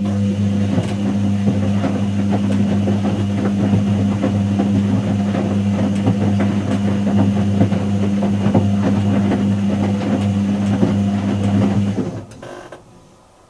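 Whirlpool AWG023 horizontal-axis top-loader washing machine motor starting suddenly and turning the drum with a steady hum, over a dense rattling, sloshing texture. It runs for about twelve seconds, then winds down and stops. The pause before the next burst is typical of a wash cycle's tumble-and-pause action.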